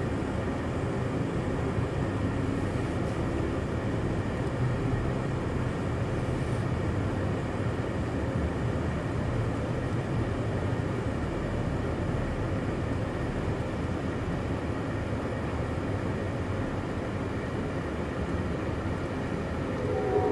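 Steady, low-pitched running noise of a moving Amtrak Empire Builder passenger train, heard from inside the car.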